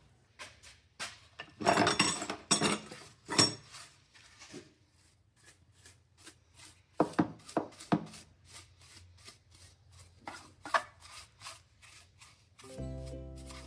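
Metal engine parts being handled and cleaned: scattered clinks and knocks, with a loud scrubbing, scraping stretch about two seconds in. Music with steady tones starts near the end.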